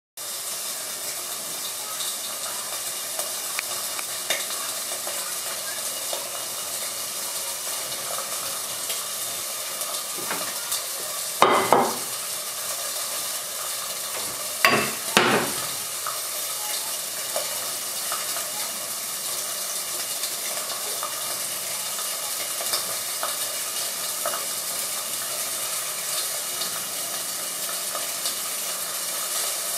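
Food cooking on a stovetop, with a steady sizzling hiss throughout. A few brief clatters of kitchen utensils against pots and bowls come about eleven seconds in and again around fifteen seconds.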